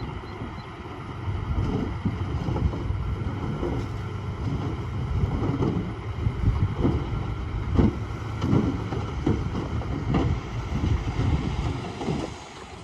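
Komatsu D20A bulldozer's diesel engine working with a steady low rumble, with repeated irregular clanks. The rumble swells about a second and a half in and drops near the end.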